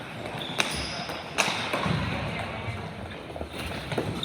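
Ball hockey play echoing in a large rink: sharp knocks of sticks and ball, one about half a second in and a louder one near a second and a half, with smaller knocks later over a steady background of the rink.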